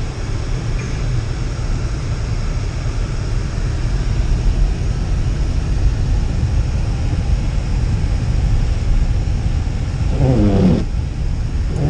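Blizzard wind buffeting the action camera's microphone: a loud, steady low rumble. A short voice cuts in about ten seconds in.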